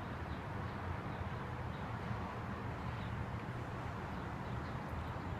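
Wind blowing on a phone's microphone ahead of a thunderstorm, a steady low rumble with a rushing hiss.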